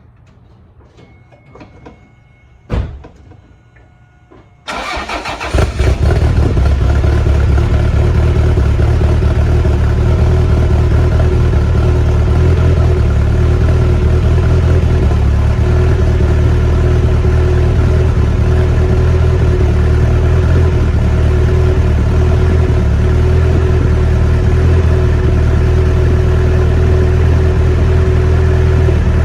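Car engine running on E85 ethanol fuel, cold-started: after a sharp click about three seconds in, the starter cranks briefly, the engine catches about six seconds in, and it then runs steadily and loudly.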